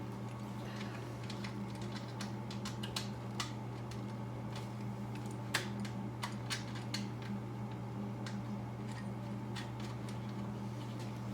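Irregular light clicks and ticks of small hardware and hand tools being handled while fitting a voltage regulator, over a steady low hum.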